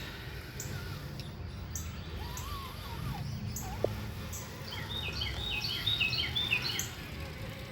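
Wild birds chirping, with a quick run of short repeated chirps about five seconds in, over a low steady rumble.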